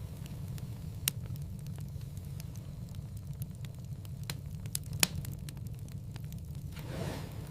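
Wood fire crackling in a fireplace: a steady low rumble of flames under frequent small snaps, with a sharp pop about a second in and a louder one around five seconds, and a soft whoosh near the end.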